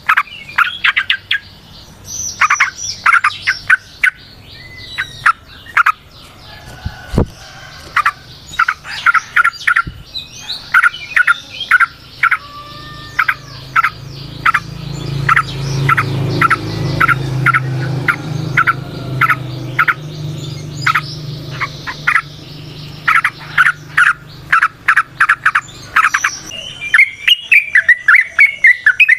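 Yellow-vented bulbul (trucukan) calling in fast runs of short, sharp chirping notes, pausing briefly between runs. A low hum sits underneath through the middle stretch.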